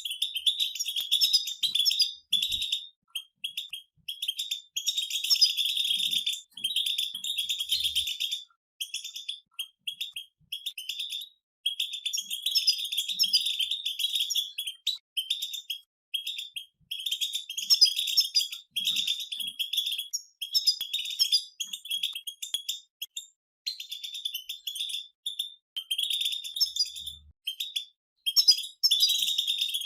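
Several European goldfinches singing together: rapid, twittering song in phrases of a few seconds with short breaks between them.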